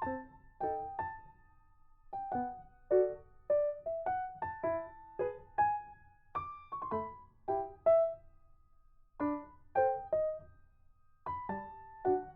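Background piano music: a slow melody of single struck notes in short phrases, with brief pauses between them.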